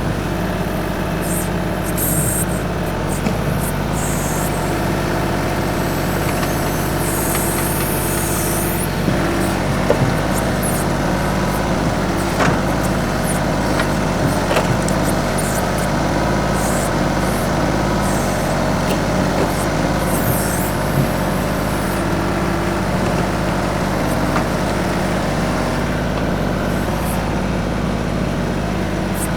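TYM 2515H compact tractor's 25 hp diesel engine running steadily while it works, with a few short knocks partway through.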